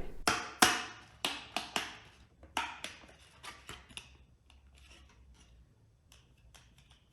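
Sharp plastic clicks and snaps from a 3D-printed ASA mudguard being handled, its cracking joints clicking under stress. They come two or three a second, loudest in the first couple of seconds, then fade to faint ticks.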